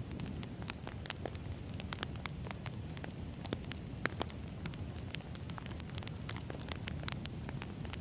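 Burning firewood crackling: a steady low rush of the fire with frequent irregular sharp pops and snaps.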